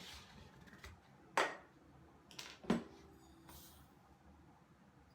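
Two sharp knocks, about a second apart, of kitchen items being handled and set down on a counter, with a faint rustle after them.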